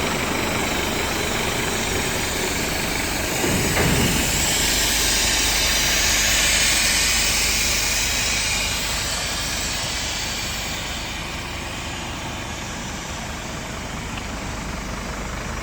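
Scania P230 truck's diesel engine idling steadily. About four seconds in, a loud hiss starts, swells for several seconds and then dies away, leaving the engine idling more quietly.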